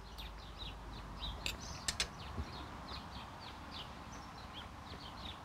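Birds chirping in short, repeated calls over a low background hum, with a couple of sharp clicks about one and a half and two seconds in.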